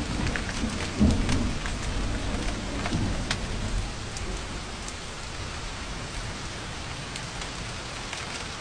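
Steady heavy rain with rolling thunder. Low rumbles swell about a second in and again near three seconds, then fade, leaving the rain alone.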